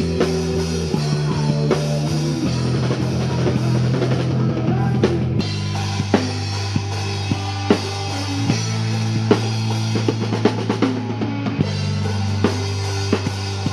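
Rock band playing with no singing: a drum kit beats steadily over held bass and guitar chords, and the chord changes about five seconds in.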